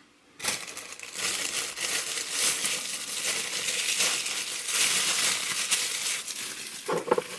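Paper packaging rustling and crinkling as it is handled and crumpled, starting about half a second in.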